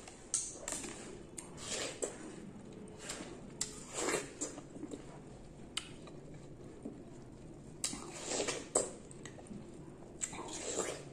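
A watermelon slice being bitten and chewed: wet, crunching bites and chewing at irregular intervals.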